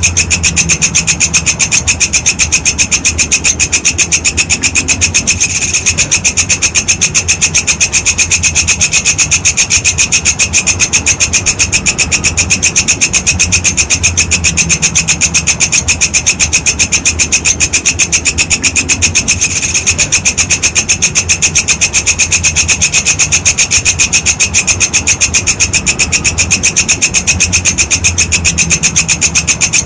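Walang kecek grasshopper calling: a steady, fast, evenly pulsed rasping rattle that never pauses, over a low hum.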